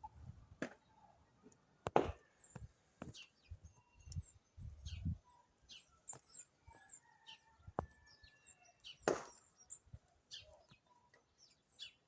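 Small birds chirping, with many short high calls scattered throughout. A few sharp knocks stand out, the loudest about two seconds in and again about nine seconds in.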